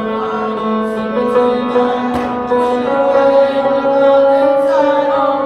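A choir singing long held notes together, the voices sustaining each pitch for a second or more before moving to the next.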